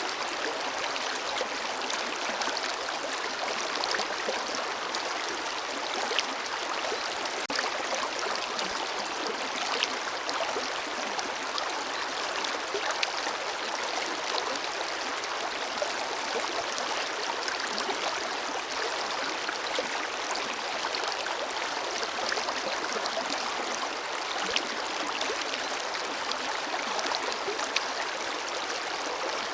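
Forest river flowing steadily, an even rush of water with small splashes and trickles.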